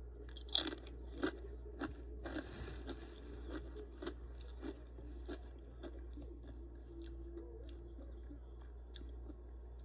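Tortilla chip with guacamole being bitten and chewed close to the microphone: crisp crunches, the loudest about half a second in, thinning out after about five seconds.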